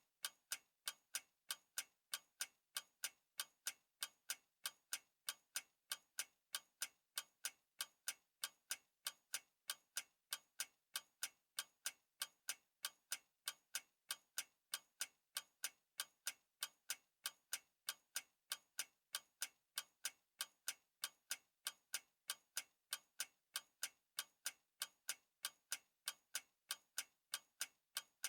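Clock ticking in a steady, even rhythm, every tick sharp and alike.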